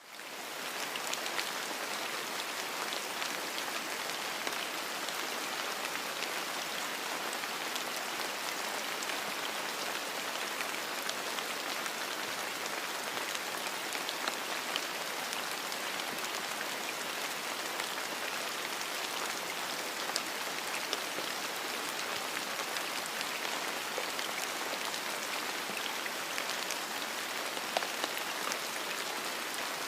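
Steady rain, an even hiss sprinkled with many small drop ticks, fading in at the start and holding level.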